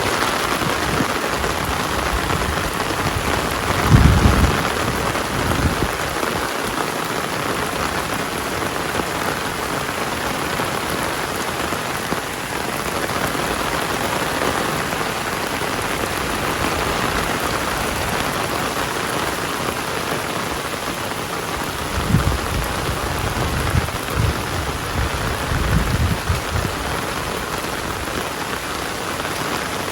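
Heavy rain falling steadily, with brief low rumbles about four seconds in and several more near the end.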